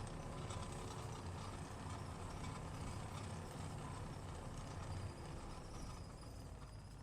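A vehicle engine running with a steady low rumble and a rattling clatter over it, easing off a little near the end.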